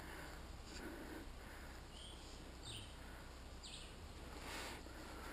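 Faint outdoor ambience with a few short, high bird chirps over a soft hiss, and some soft rustling near the start.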